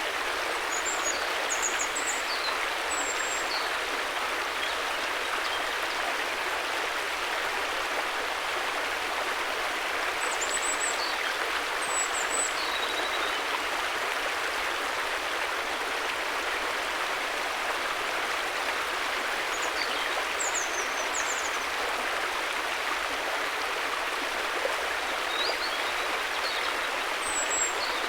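River water flowing steadily, an even rushing noise with no breaks. Groups of brief high-pitched chirps come and go every several seconds over the water.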